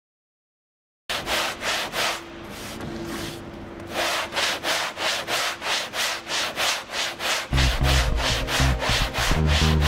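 Rhythmic sanding strokes, about three a second, starting abruptly about a second in over faint steady musical tones. A heavy bass beat comes in about seven and a half seconds in.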